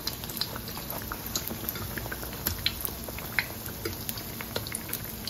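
Apple fritter batter deep-frying in hot oil in a wok: a steady sizzle scattered with many small pops and crackles.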